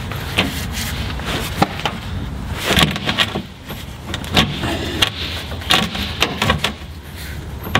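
Irregular metal clanks and knocks of a wrench straining on a stuck, overtightened tractor drain plug, over a steady low hum.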